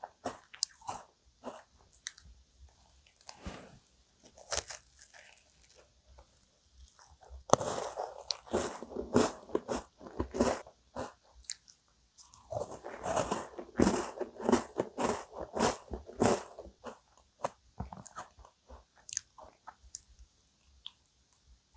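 Mouth sounds of eating a chocolate digestive biscuit topped with vanilla ice cream cake: crisp biting and crunching with scattered clicks. Two long runs of dense crunching start about 8 and 13 seconds in.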